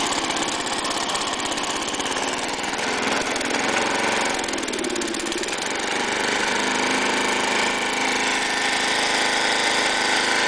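Snapper mower's Briggs & Stratton engine running warm. About four seconds in it sags and dips in pitch, then catches and runs steady again: the fault where the warm engine nearly shuts off and then starts back up by itself.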